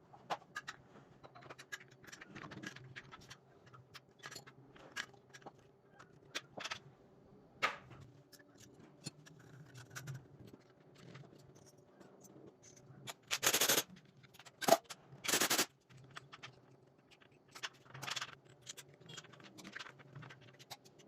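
Hand-work noises: scattered clicks and light scrapes over a faint low hum, with two short, loud hissing bursts about two seconds apart just past the middle.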